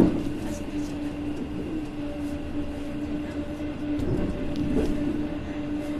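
Passenger train heard from inside a coach as it pulls into a station: steady rolling noise on the rails with a continuous low hum and a few faint ticks.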